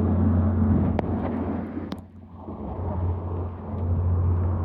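Standby generator's engine running steadily with a deep, even hum, the sound dropping away briefly about two seconds in.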